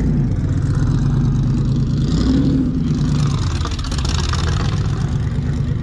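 A car engine running at low speed nearby: a steady low rumble, with a brief rise and fall in pitch about two seconds in.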